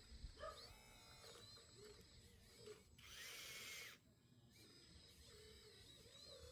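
A small electric motor in a radio-controlled scale model whirs for about a second, its pitch rising and then falling, about three seconds in. Birds chirp faintly now and then.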